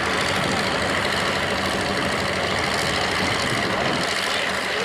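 A large tractor's engine running steadily, a continuous even drone.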